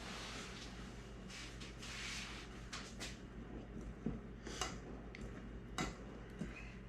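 Kitchen work sounds from mixing dough in a bowl: soft scraping sounds for the first few seconds, then a few sharp knocks and clinks of a utensil against the bowl.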